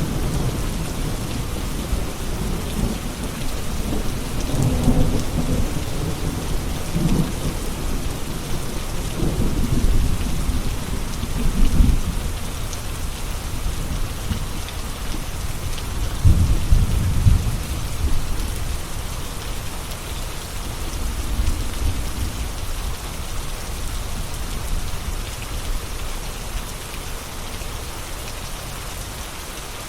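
Steady rain with low rolls of thunder swelling several times, the strongest about twelve and seventeen seconds in. The thunder fades toward the end while the rain keeps falling.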